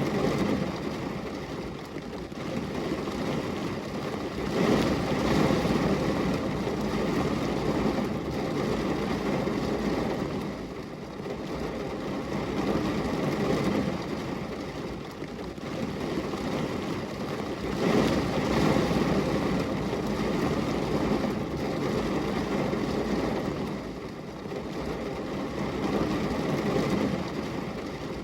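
Rain, heard as a steady rushing noise that swells and eases every few seconds.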